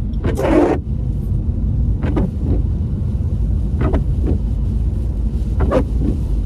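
Steady low road and engine rumble inside a car's cabin in the rain, with the windscreen wipers sweeping: short swishes in pairs about every two seconds from a wiper that is noisy on the glass. A louder rushing swish comes about half a second in.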